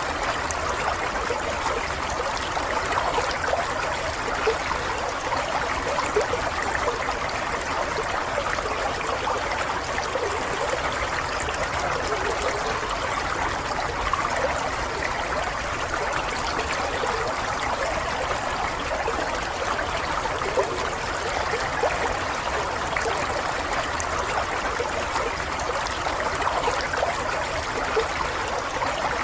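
Water running and trickling steadily, like a small stream over stones, with small splashes and burbles throughout.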